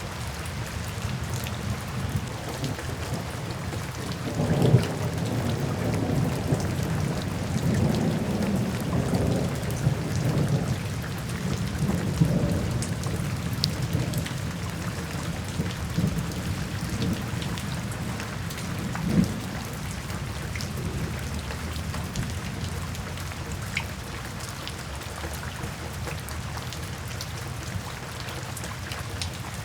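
Steady rain falling, with a low rolling rumble of thunder that builds about four seconds in, swells and fades over the next ten seconds, and a short further rumble near the middle.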